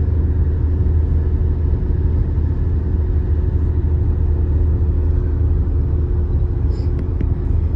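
Steady, loud low mechanical drone with a few constant hum tones, like a running engine or motor, and a couple of faint clicks near the end.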